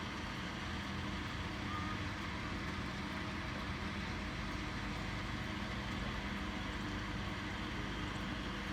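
A steady, unchanging low engine hum under an even hiss.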